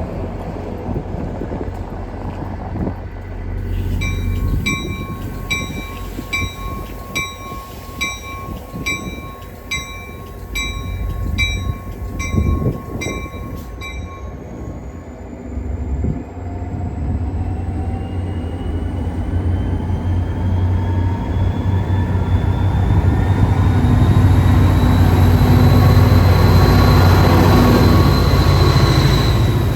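A bell dings about one and a half times a second for some ten seconds over the steady low hum of an NJ Transit train's ALP-45DP locomotive. The bell stops and the train pulls away, a whine rising steadily in pitch as the sound grows louder toward the end.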